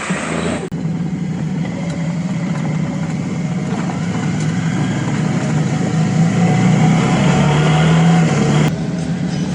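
Suzuki V-Strom 650's V-twin engine running steadily under way, with road and wind noise. The engine note holds steady and firms a little before the sound changes abruptly near the end.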